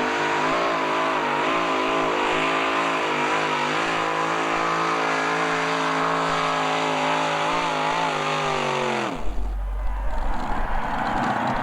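Pulling vehicle's high-revving engine running loud at near-steady high rpm with slight wavering, its pitch dropping off after about nine seconds. It then gives way abruptly to a low rumble with a few knocks.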